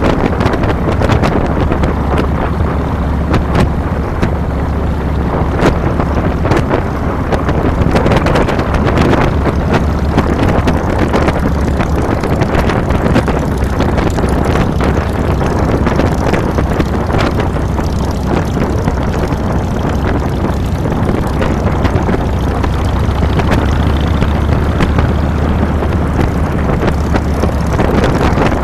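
Harley-Davidson Fat Boy's V-twin engine running steadily under way, heard from the handlebars, with wind buffeting the microphone.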